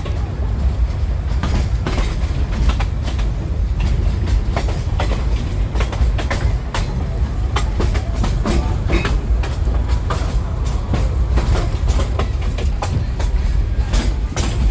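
Mocanita narrow-gauge steam train running along the track: a steady low rumble with irregular clicks and knocks of the wheels over the rails.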